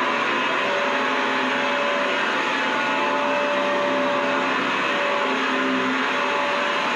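Vacuum cleaner running steadily: a constant airflow rush with a steady motor whine.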